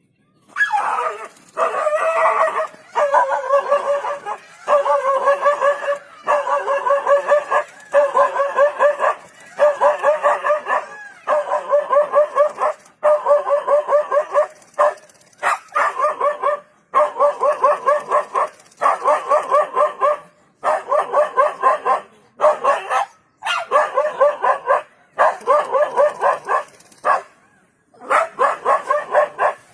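A dog barking non-stop in rapid runs of barks, each run a second or two long with short breaks between.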